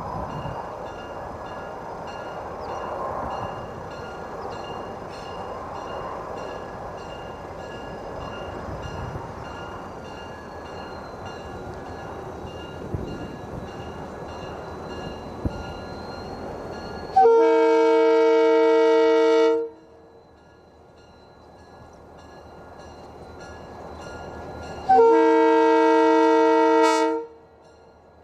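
Diesel freight locomotive's air horn sounding two long blasts, each a little over two seconds, about eight seconds apart, as a multi-note chord. A steady rumble fills the first two-thirds and falls away as the first blast sounds.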